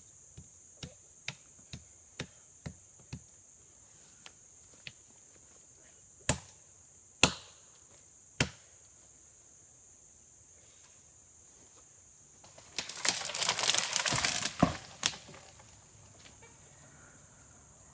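Chopping at a tree trunk: a quick run of light strokes about two a second, then three harder single blows. About thirteen seconds in comes a loud rustling crash of about two seconds, with snaps in it, as the tree falls through its branches and leaves. A steady high insect buzz runs underneath.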